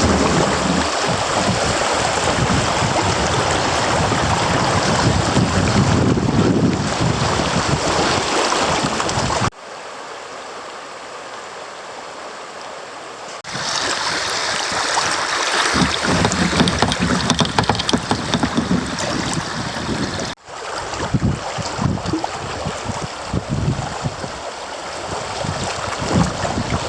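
Creek water rushing, with wind buffeting the microphone. It cuts abruptly to a quieter stretch about ten seconds in, comes back about four seconds later, and there is another sudden break near twenty seconds.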